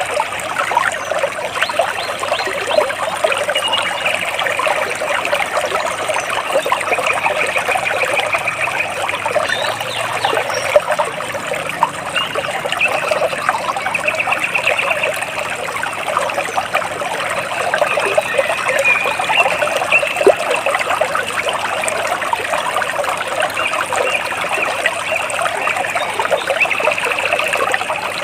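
Water splashing and trickling steadily, with birds giving short, rapid high trills that recur every few seconds over it.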